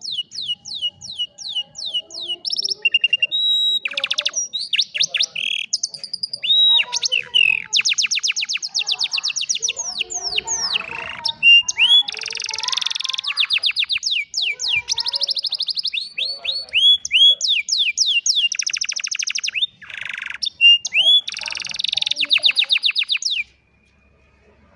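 Domestic canary singing a long song of fast trills, phrases of quickly repeated high sweeping notes that change speed and pitch from one phrase to the next. The song stops abruptly near the end.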